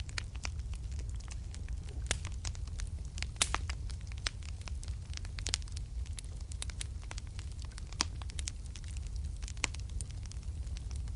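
Fireplace fire crackling and popping: irregular sharp snaps over a steady low rumble of the flames, with a few louder pops, the loudest about a third of the way in.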